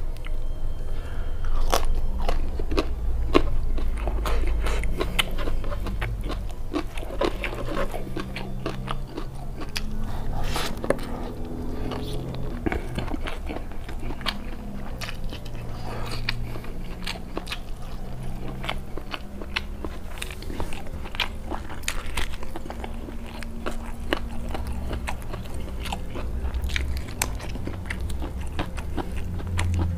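A person biting and chewing raw leafy vegetables and fried food with sambal close to the microphone: crunching with many small irregular clicks.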